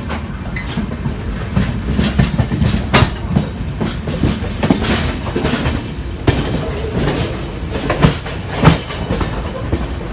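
Shatabdi Express coach running along the track, heard at its open door: a steady rumble with irregular sharp clacks and knocks of the wheels over the rails.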